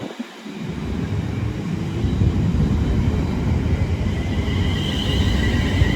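A train approaching on the track, its low rumble growing louder over the first couple of seconds and then holding steady, with a high whine coming in about four seconds in.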